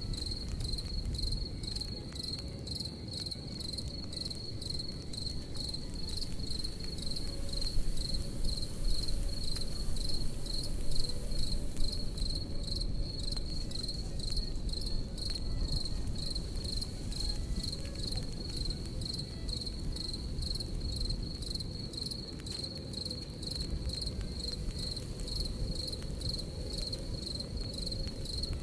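Crickets chirping in a steady, even rhythm, over the low rumble and scattered crackle of a campfire.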